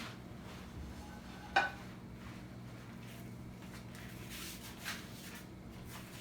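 A single sharp clink of kitchenware about a second and a half in, ringing briefly, with a few softer handling knocks later, over a steady low hum.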